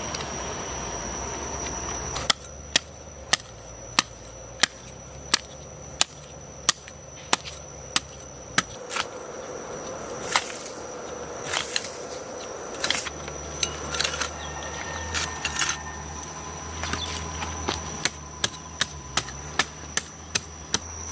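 Hammering: sharp, evenly spaced blows about one and a half a second, in a run of about ten strokes, then irregular knocks and handling, then another quick run of strokes near the end. A steady hiss stops abruptly about two seconds in, just before the first blow.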